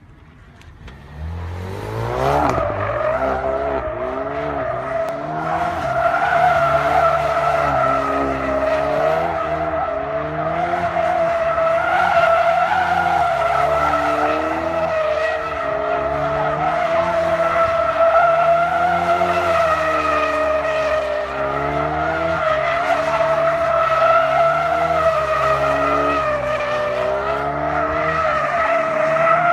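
A Ford Focus RS revving up, then its tyres squealing without a break as the car is held in a slide. The engine note rises and falls underneath the squeal.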